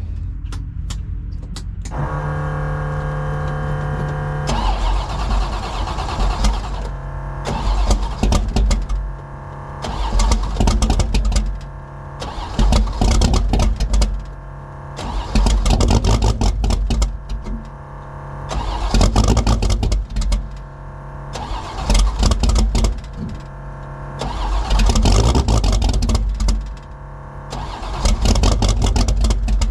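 Cold start of a carburetted Fox Body Mustang drag-car engine with no choke: it cranks over briefly, catches, and is then blipped over and over, loud revs every two to three seconds with dips back toward idle between them, to keep the cold engine running.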